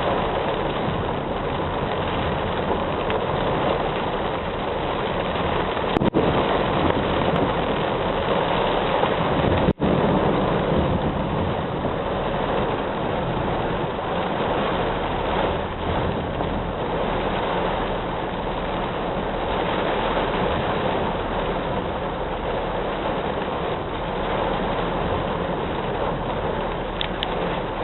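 Steady rushing noise of heavy rain and running water, with a momentary dropout about ten seconds in.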